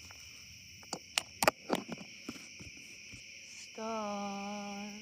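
Crickets chirring in a steady, high, continuous drone. There are a few sharp clicks between one and two seconds in, and about four seconds in a voice enters on a long held sung note as a lullaby begins.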